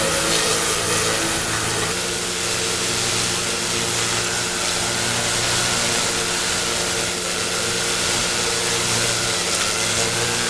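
Pressure washer's engine running steadily, with the hiss of high-pressure water spraying.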